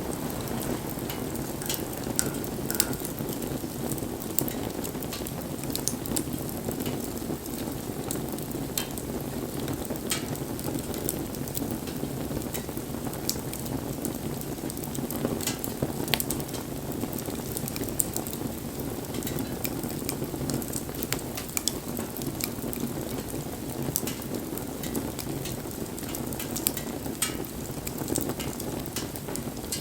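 Wood bonfire burning: a steady low rush of flame with frequent sharp, irregular crackles and pops from the burning wood.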